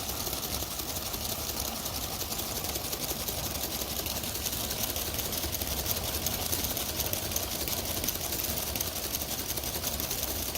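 Lego electric motors driving the car wash's spinning brushes: a steady whir with rapid plastic gear ticking. The top brush is skipping instead of turning smoothly.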